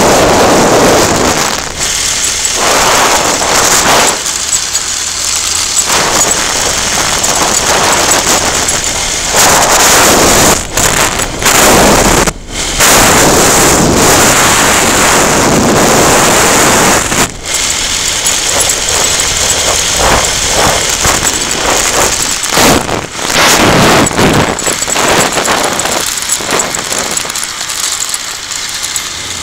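Loud wind rushing over the microphone of a moving motorcycle, buffeting in gusts with a few brief drop-outs.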